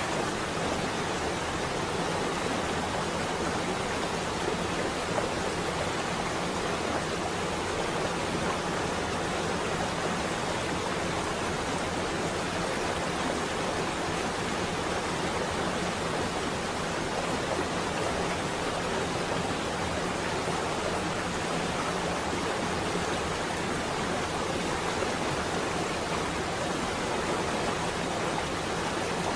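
Rain falling on a window: a steady, even hiss with no thunder in this stretch.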